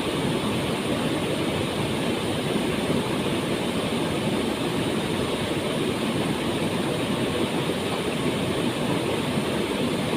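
Waterfall: a steady, deep rush of falling water, even and unchanging throughout.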